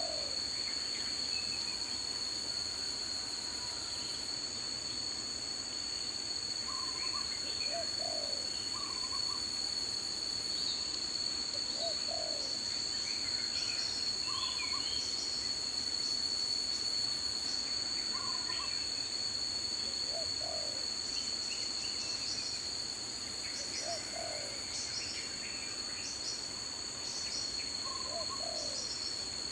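Daytime tropical forest ambience: a steady, high insect drone, with a short low bird call repeating every few seconds and scattered higher bird chirps over it.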